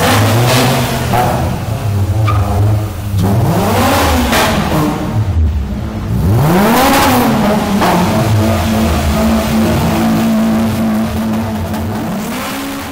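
Toyota Corolla RunX hatchback's engine revved as the car rolls slowly, its note rising and falling twice to a high pitch, about a third of the way in and again halfway through, over a steady idle and a few smaller blips.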